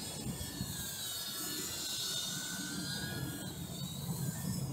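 Blade Inductrix 200 quadcopter's ducted motors whining, the pitch wavering and gliding up and down as the drone fights strong wind, with wind rumbling low on the microphone.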